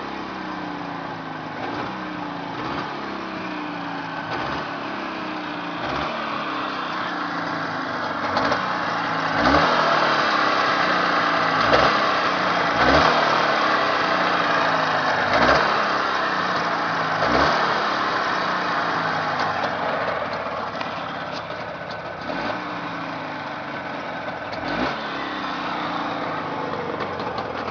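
Jawa 638 two-stroke twin motorcycle engine running on a test run, revved up again and again in short blips, with a louder stretch of higher revs in the middle before it settles back.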